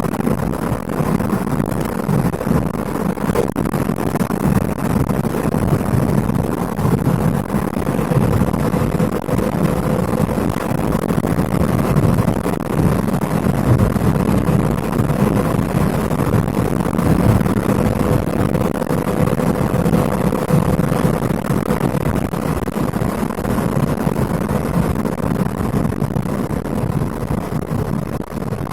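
Lada Priora's 1.6-litre 16-valve 126 engine, with a 4-1 manifold and an insert in place of the catalytic converter, pulling the car along at a steady speed, heard from inside the cabin together with road noise as a steady low rumble.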